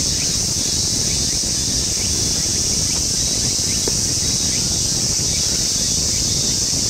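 Steady high-pitched insect chorus, with a low rumble of wind on the microphone and a few faint short chirps.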